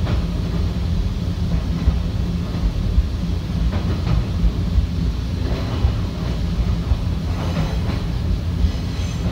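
Nankai electric commuter train running along the track, heard from inside the front car: a steady low rumble of wheels and running gear, with a few faint clicks from the wheels over the rails.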